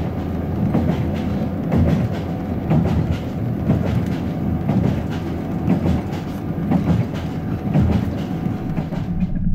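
Passenger train running along the line, heard from inside the carriage: a steady rumble with the clickety-clack of the wheels over rail joints about once a second.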